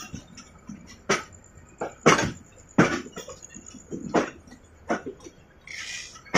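Passenger train carriage in motion, with irregular sharp clunks and rattles from the wheels and running gear on the track, and a short hiss near the end.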